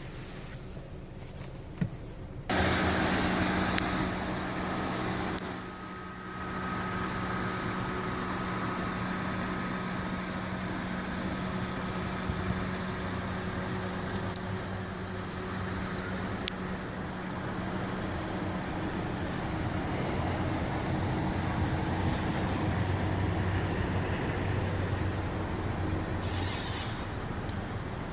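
2016 Honda Civic sedan's engine starting up about two and a half seconds in, then idling steadily. It is a little louder for the first couple of seconds after it catches.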